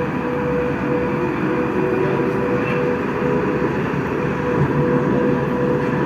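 Moscow Metro train running at a steady speed: a continuous rumble from the wheels and rails with a steady whine held at one pitch.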